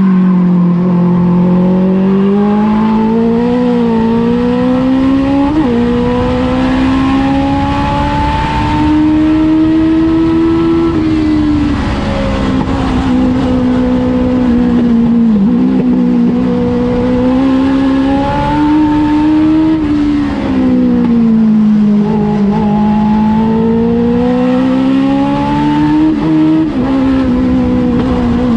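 Legends race car engine running hard at speed. Its pitch swells and sags slowly, with a few brief dips about 5, 15, 20 and 26 seconds in.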